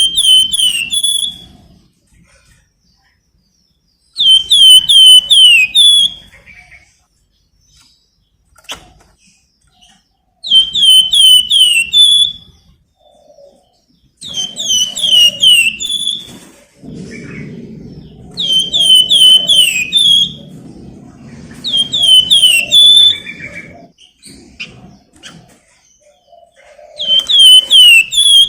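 Flamboyan songbird singing: a repeated phrase of several quick, falling whistled notes ending on a short held high note, given about seven times with pauses of a few seconds between. A low rumbling noise lies under the song in the middle part.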